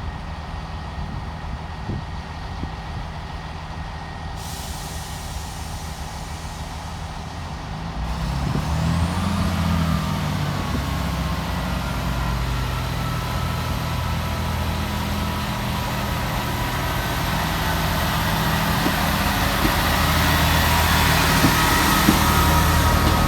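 Class 158 diesel multiple unit's underfloor diesel engines running at the platform, with a hiss of air about four and a half seconds in; about eight seconds in the engines rev up with a rising whine as the train pulls away, growing louder toward the end.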